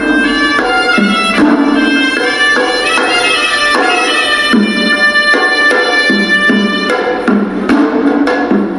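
Hewisi, Sri Lankan temple ritual music: a horanewa, a nasal double-reed pipe, plays a stepping melody over steady strokes of the ensemble's drums. The reed melody drops away about seven seconds in, leaving mainly the drums.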